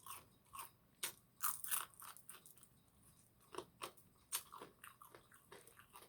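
Crunching and chewing of deep-fried food, crisp bites into fried catfish or shrimp breading. Short crackly crunches come at irregular intervals, with a close run of them between one and two seconds in and more around four seconds in.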